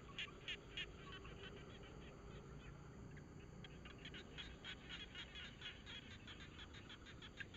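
A bird chirping in quick, repeated short high notes, a few a second at first and faster, about five a second, from about halfway through, over faint background.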